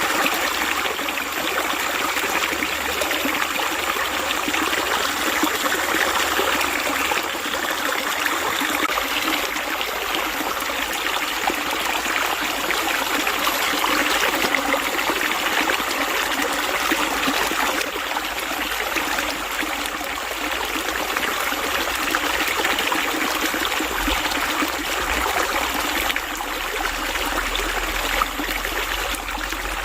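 Water running steadily in a continuous, even trickling rush, with no pauses or changes.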